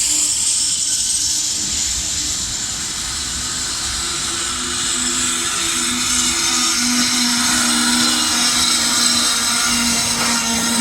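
Freight train hauled by a VL80S electric locomotive passing close by: a steady rolling rush with a steady low hum that grows stronger in the second half.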